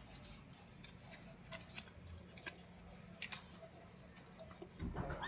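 Scattered sharp clicks and taps over a low steady hum, with a brief louder rustle near the end.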